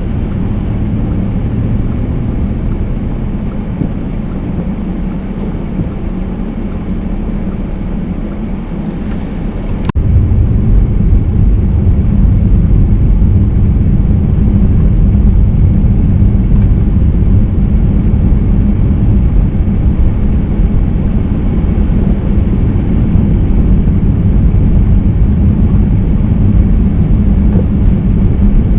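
Car driving, a steady low rumble of engine and road noise. About ten seconds in there is a sharp click, and after it the rumble is louder.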